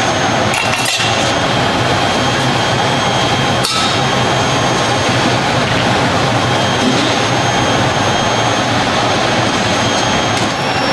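Loud steady machine noise in a workshop, with two sharp metallic knocks, one about a second in and one near four seconds in.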